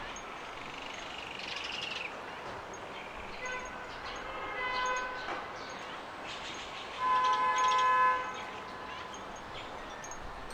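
Garden birdsong with small birds chirping, and two steady, flat-pitched toots of a distant horn, the second louder and about a second long.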